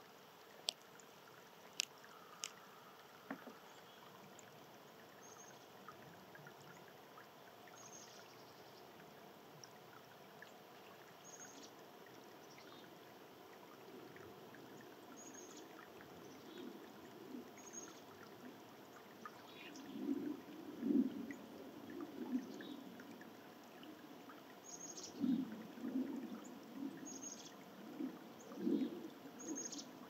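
A small bird gives short, high chirps every couple of seconds over a faint, steady hiss. A few sharp clicks come near the start, and low rustling bursts build up in the second half to become the loudest sound.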